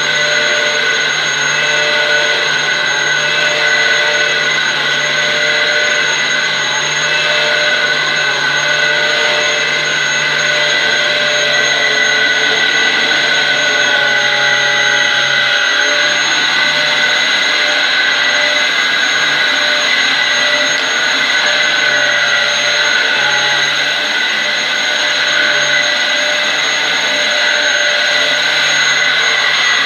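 Dyson DC07 upright vacuum cleaner running steadily, its motor giving a loud, high whine, while it is pushed over carpet. A lower hum comes and goes.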